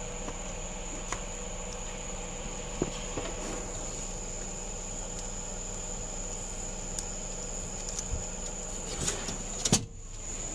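Steady background noise with a thin, high, constant tone and a low hum, a few faint clicks, and a louder knock near the end.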